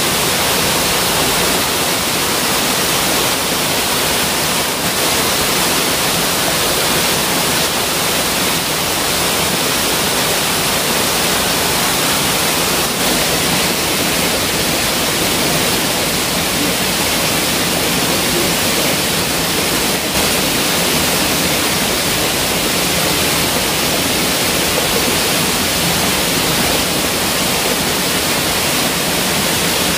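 A fairly tall waterfall pouring down close by: a steady, loud rush of falling water that does not change.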